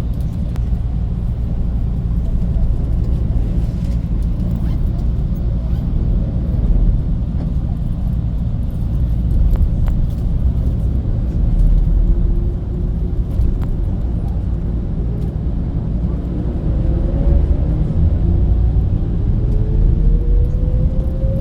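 Bus running on the road: a steady low rumble, with a whine that rises in pitch over the last several seconds.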